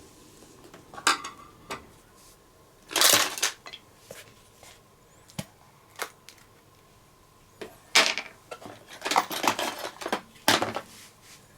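Scattered clinks, clicks and clatters of small objects being handled on a work surface, with a longer clatter about three seconds in and a busy run of clatters near the end.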